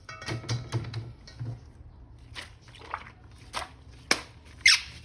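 A series of short clicks and taps from a toy action figure being handled, with a couple of quick falling squeaks near the end.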